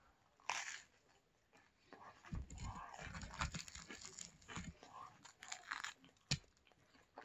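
Biting into and chewing crispy pizza crust: a crunch about half a second in, then irregular crunching chews, and a sharp click near the end.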